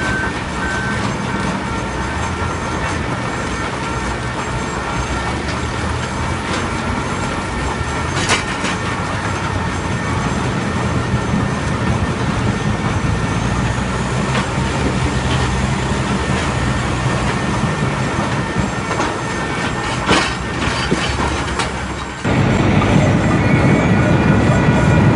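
Log debarking machine running with a steady mechanical hum and whine, broken by a few sharp knocks. About 22 seconds in the sound drops for a moment, then turns abruptly louder and rougher.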